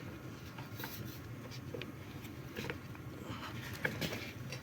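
Faint rubbing and small clicks of a strut top mount being handled and lined up on a shock absorber strut, over a low steady hum.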